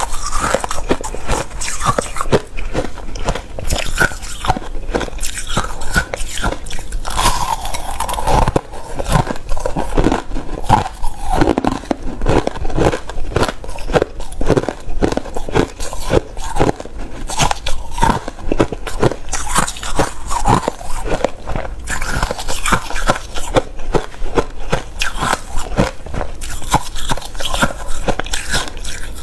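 Close-up crunching of hard refrozen crushed ice as it is bitten and chewed, a dense run of sharp, irregular crunches.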